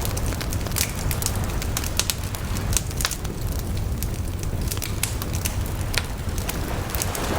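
Bonfire burning: wood crackling and popping in frequent sharp snaps over the steady low rumble of the flames.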